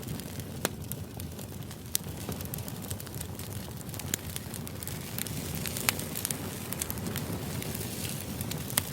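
Steady low ambient background noise with irregular sharp pops and clicks scattered through it, a crackle like a fire-type white-noise track.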